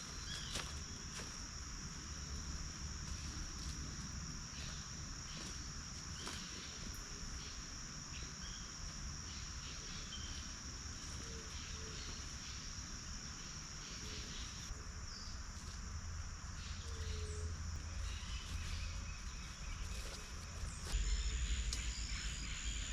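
Insects chirring in a steady, high-pitched chorus, with a few faint chirps over it; a low rumble grows louder near the end.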